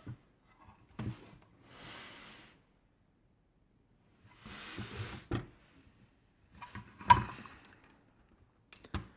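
Plastic Lego dump truck being handled as its clip-hinged dump bed is tipped: a few light plastic clicks and two soft scraping sounds.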